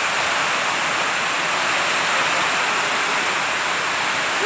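Heavy rain pouring down in a steady, dense hiss, unbroken throughout.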